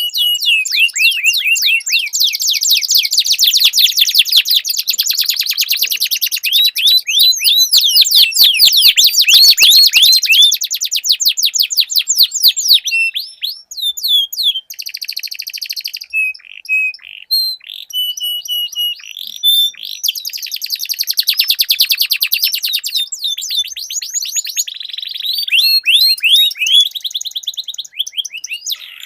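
Domestic canaries singing long, fast rolling trills of rapidly repeated high notes. The trills thin out to short, broken phrases midway, then resume strongly.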